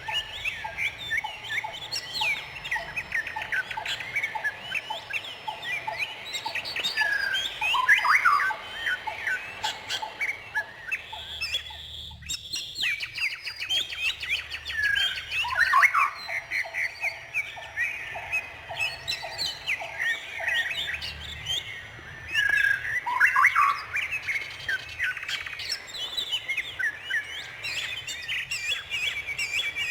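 Several birds chirping and calling at once, a dense run of short overlapping chirps and squawks. There is a brief lull about twelve seconds in, a rapid low trill a few seconds later, and a fast high trill near the end.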